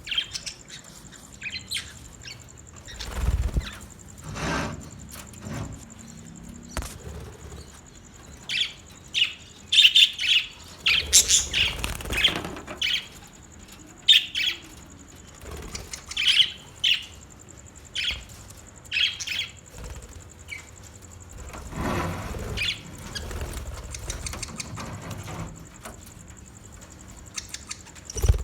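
Pet budgerigars chirping in short, scattered bursts, busiest in the middle. A few louder whooshes come about three to five seconds in and again around twenty-two seconds.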